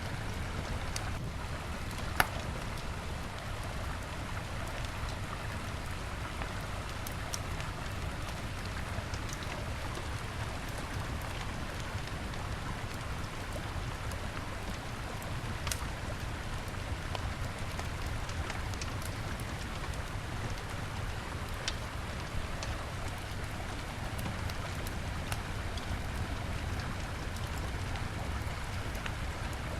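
Wood bonfire crackling, with scattered sharp pops and one louder pop about two seconds in, over the steady rush of a river.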